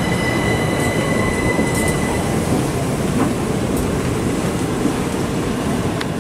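Southern electric multiple unit moving along the platform, with a steady rumble of wheels and running gear. A high steady whine over it fades out about two seconds in.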